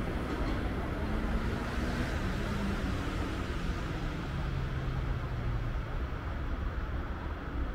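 Low, steady rumble of a train running past on the line, with a faint hum that drops lower in pitch about halfway through.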